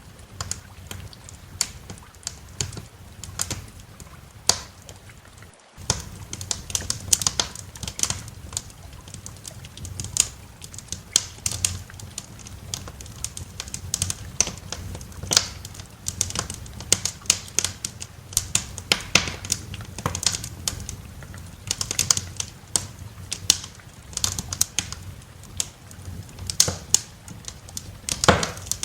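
Wood fire in a fireplace crackling, with many irregular sharp pops and snaps over a low steady rumble. The sound cuts out for an instant about six seconds in.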